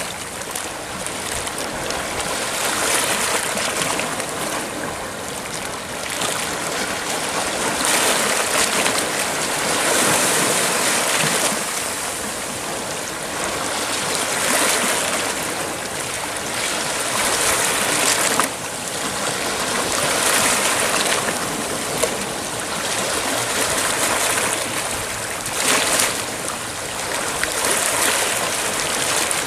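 Sea waves breaking and washing on the shore, a continuous hiss of surf that swells and fades every few seconds.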